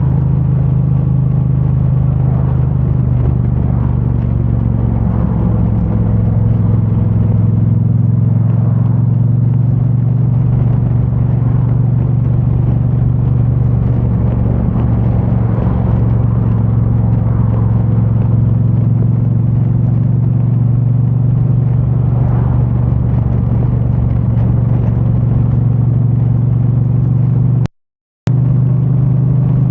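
A 2022 Triumph Bonneville T100's 900 cc parallel-twin engine on its stock exhaust, running at an almost steady speed while cruising, muffled by a microphone stuffed in a backpack. The sound cuts out completely for about half a second near the end.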